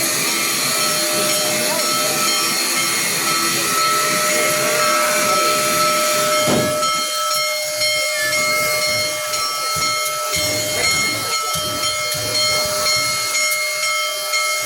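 Union Pacific Big Boy 4014, a 4-8-8-4 articulated steam locomotive, hissing steam steadily, with faint steady whining tones under the hiss.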